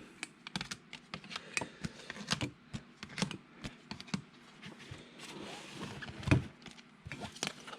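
Trading cards in hard plastic top loaders being handled and set down, making a scatter of light clicks and taps, with a louder knock about six seconds in.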